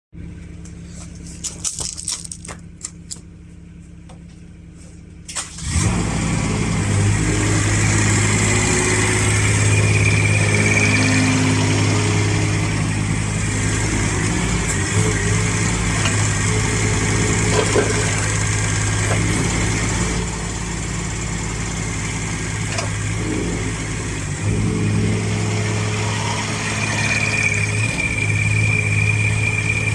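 Mini excavator's Kubota engine starting about five and a half seconds in after a few clicks, then running steadily, with a high whine coming and going.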